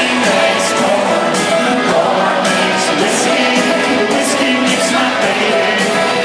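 Live country band playing loud amplified music at a stadium concert, with singing over it and a steady beat.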